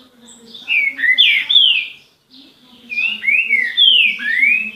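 A songbird singing two loud phrases of slurred whistled notes, each note sliding down or up in pitch, with a short pause between the phrases. Fainter chirps and a low murmur continue underneath.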